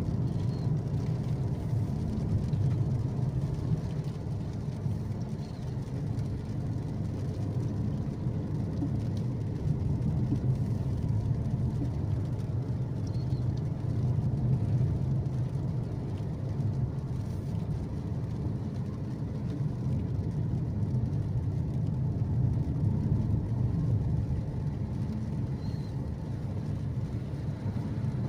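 Car driving uphill: a steady low rumble of engine and tyres on the road.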